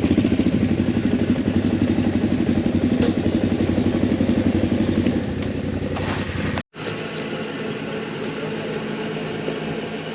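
Motorcycle engine idling with a steady low pulsing. It cuts out abruptly about two-thirds of the way through, and a quieter, steadier engine hum follows.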